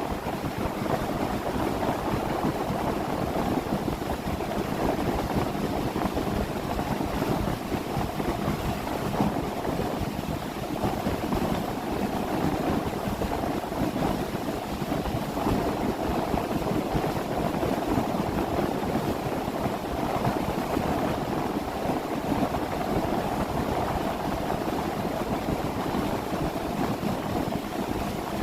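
A 30-foot boat under way: a steady engine drone mixed with water rushing past the hull and wind on the microphone.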